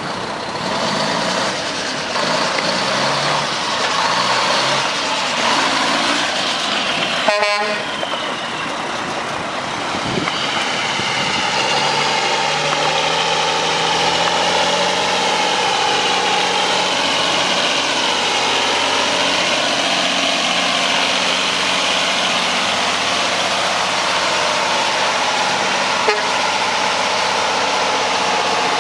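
Mack E7-350 diesel engine of a 2000 Mack CH613 tractor truck running, with one short sharp click about seven seconds in. The engine gets louder around ten seconds in and then holds a steady note.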